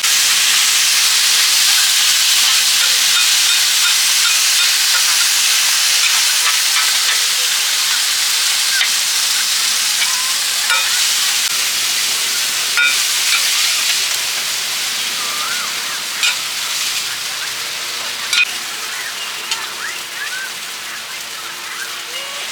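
Food frying in hot oil, a loud steady sizzle that slowly dies down, with a few sharp clinks and scrapes of a metal utensil stirring it.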